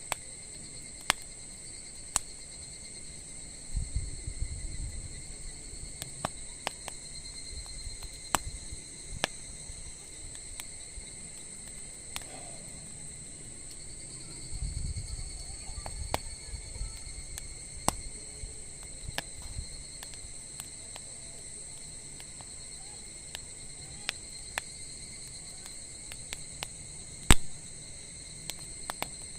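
Wood campfire crackling, with sparse sharp pops and one louder pop near the end. Under it run a steady high drone of chirping insects and a couple of brief low rumbles.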